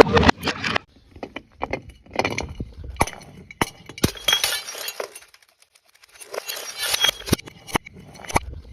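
Glass bottles smashing: repeated sharp cracks and shattering with clinking shards, in bursts with a brief lull about halfway through.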